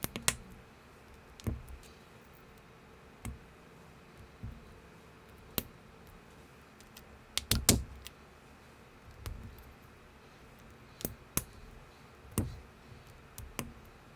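Plastic LEGO-compatible building bricks being handled and pressed together: irregular sharp clicks and snaps every second or two, with a quick cluster of several clicks a little past halfway.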